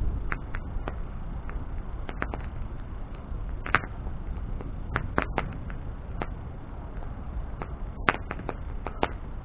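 Bonfire burning, crackling with irregular sharp pops over a steady low rumble of flame. The loudest pops come about four and eight seconds in.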